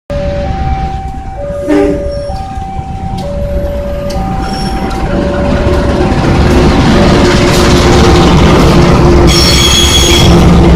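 Mataram Premium passenger train approaching and running through, its low rumble growing steadily louder, while a warning signal alternates two tones about once a second. A brief high squeal sounds near the end.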